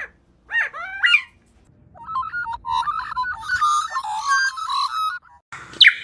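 Bird calls: a short rising, meow-like call, then a few seconds of varied whistled and chattering notes jumping from pitch to pitch, and a sharp falling whistle near the end.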